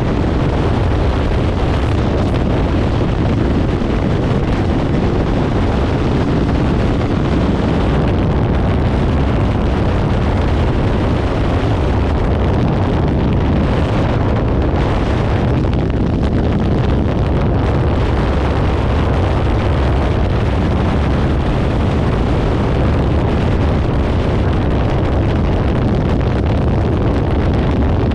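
Kawasaki Ninja 500's parallel-twin engine running steadily through a Leo Vince aftermarket exhaust while riding, with wind buffeting the microphone.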